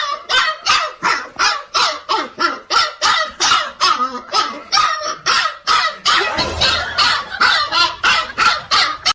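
A dog barking rapidly and without pause, about three or four barks a second.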